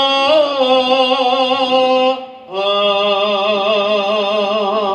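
A solo voice singing a slow Javanese tembang-style chant in Javanese, holding long notes with wavering vibrato. There are two drawn-out phrases, with a breath between them about two and a half seconds in.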